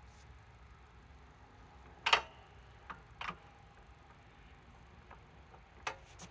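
Five separate sharp clicks and knocks of metal tools being handled, the loudest about two seconds in, over a faint low hum; the impact wrench is not running.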